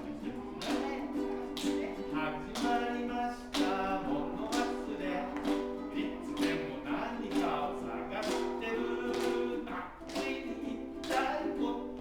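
Ukulele strummed in a steady rhythm, about one stroke a second, with a voice singing along.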